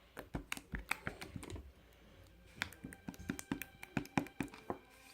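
Quick, irregular tapping clicks like typing on a keyboard, in two runs with a pause of about a second between them.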